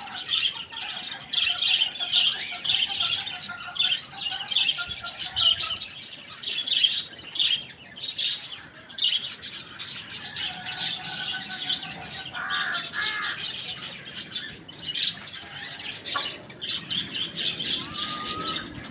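Many small birds chirping and twittering at once in a dense, continuous chatter of quick high notes, with a few longer wavering calls mixed in.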